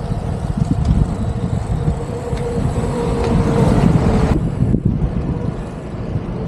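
Road traffic noise with a heavy vehicle's engine running close by, a steady whine over a low rumble for a couple of seconds in the middle, mixed with wind buffeting on the microphone. The sound briefly drops out about four and a half seconds in.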